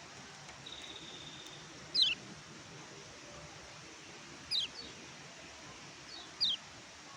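Kecial kuning (pleci, a white-eye) calling: a short, thin held high note, then three sharp, quickly falling chirps about two seconds apart, the first the loudest, over a steady hiss.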